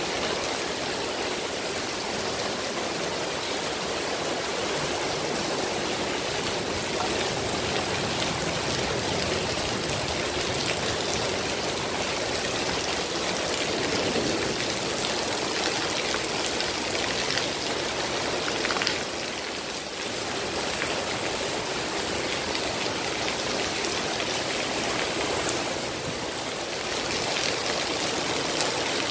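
Heavy rain falling steadily on wet paving, with water streaming and splashing off a shelter's roof edge.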